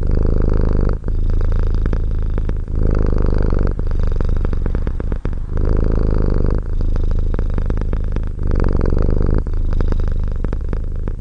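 A domestic cat purring without a break, the purr changing character with each in-breath and out-breath about every one to two seconds.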